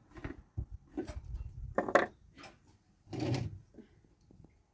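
A series of knocks and clatters, as of wooden objects or dishes being handled, with a louder clatter about two seconds in and another a little past three seconds.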